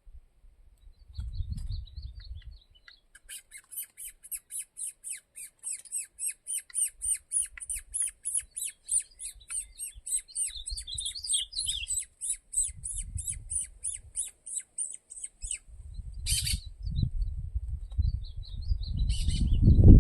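Songbird singing a long, fast, even trill of high notes, about four a second, for some twelve seconds, then two short calls. Low rumbling noise comes and goes underneath.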